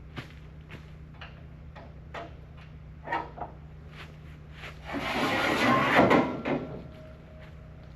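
Footsteps, about two a second, over a steady low hum, then a loud scraping rub lasting about a second and a half past the middle, like something heavy being slid or dragged.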